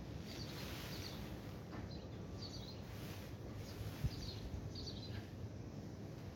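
A small songbird chirping over and over in short, high chirps, over a steady low outdoor background hum. A single brief thump about four seconds in.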